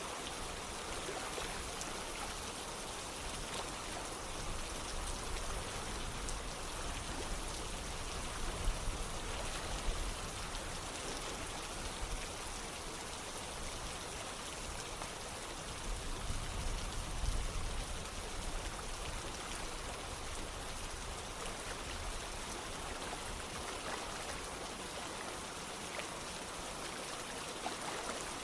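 Steady rain falling together with running water, an even wash of noise with scattered drop sounds. A low rumble swells up briefly twice, about a third and about two-thirds of the way through.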